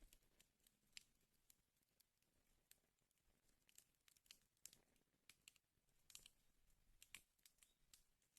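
Faint wood fire crackling: irregular sharp pops and snaps of burning logs over a soft hiss, a few louder snaps among them.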